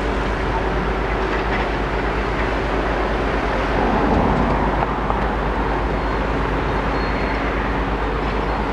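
Steady, even outdoor rumble of heavy machinery and traffic noise, without distinct knocks or crashes.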